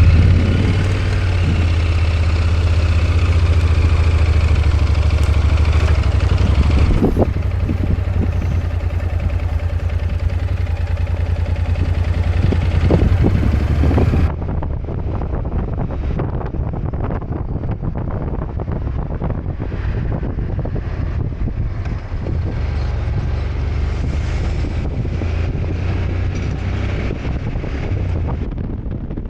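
Honda NC750X parallel-twin motorcycle being ridden at road speed: a steady low engine drone under wind rushing over the microphone. The sound shifts abruptly about seven and fourteen seconds in.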